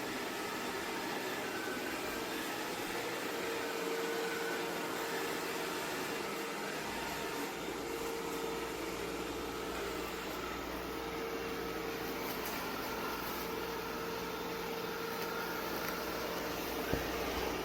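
A machine's steady whir with a faint, constant hum in it, and a single click near the end.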